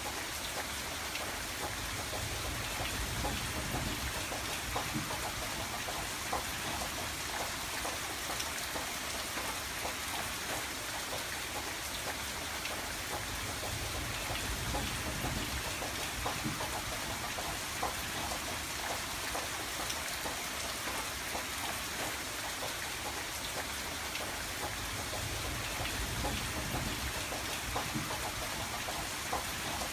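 Steady rain pattering on a window pane, with many small drop ticks over an even hiss and a low rumble that swells and fades every several seconds.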